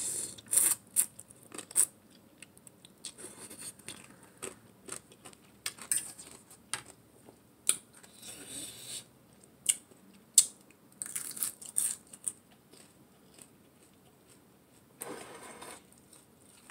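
Close-up mukbang eating sounds: a forkful of glass noodles and shredded carrot salad taken in, then chewed, with many short wet mouth clicks and smacks. There is a brief louder burst of breath or mouth noise near the end.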